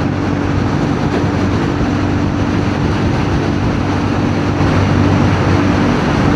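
CFMoto 450NK motorcycle's parallel-twin engine holding a steady cruising speed, under loud wind rush over the rider's microphone.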